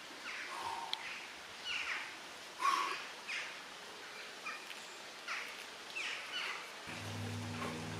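Birds singing: short, quickly falling phrases repeated every second or so. Near the end a steady low hum of several even tones starts and holds.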